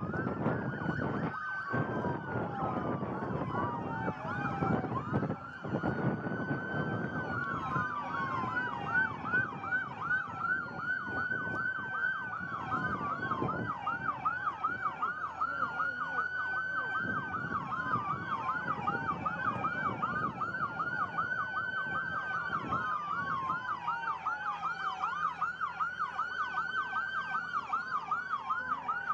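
Several emergency-vehicle sirens sounding at once: one slowly wailing up and down, another on a fast yelp. A low rumble from vehicles runs under them for about the first half and then fades.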